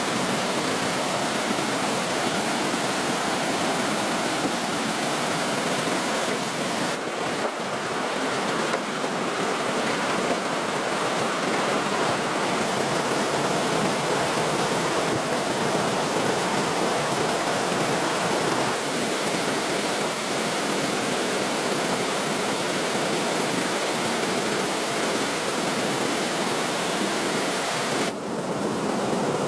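Steady rushing noise without distinct events, of the kind made by surf, running water or wind.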